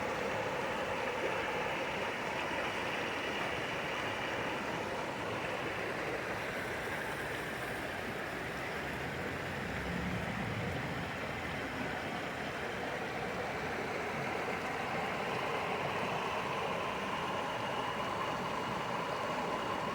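Steady rushing of a mountain creek flowing over rocks, an even, unbroken wash of water noise. A brief low rumble about halfway through.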